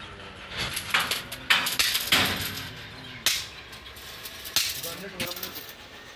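Irregular hammer blows, several sharp knocks a second or more apart, with voices in the background.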